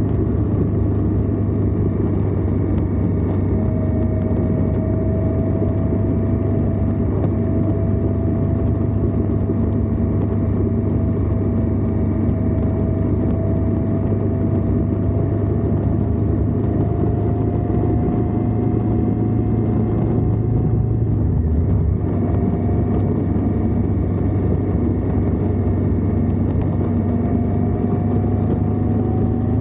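Indian Scout motorcycle's V-twin engine running steadily at road speed, heard close up from the lower crash bar, with a faint whine that slowly rises in pitch. The sound eases briefly about two thirds of the way through, then carries on.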